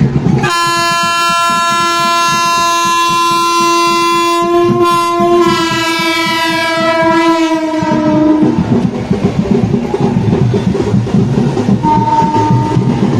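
Vande Bharat Express electric trainset sounding its horn in a long blast, a brief break, then a second long blast that falls slightly in pitch as the train passes. After the horn comes the rumble and wheel clatter of the train running by.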